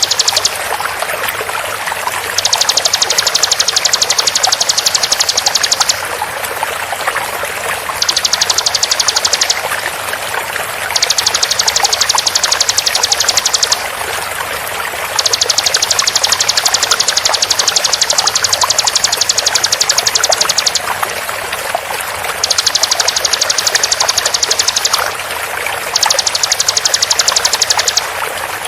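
Bar-winged prinia (ciblek) giving its rapid-fire 'tembakan' song: bursts of very fast, evenly repeated high notes, each lasting one and a half to five seconds with short pauses between, over a steady sound of running water.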